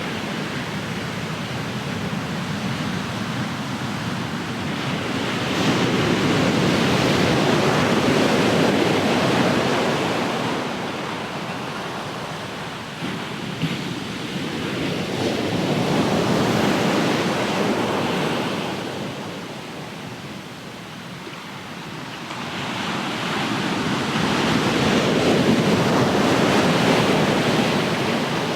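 Ocean surf washing in and out, swelling and fading in three slow surges about ten seconds apart.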